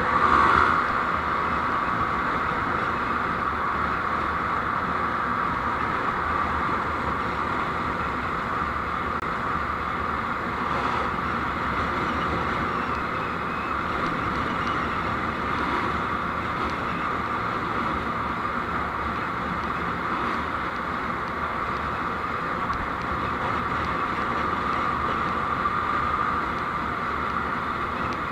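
Steady road and engine noise of a moving vehicle as picked up by a dashcam, with a brief louder rush about half a second in.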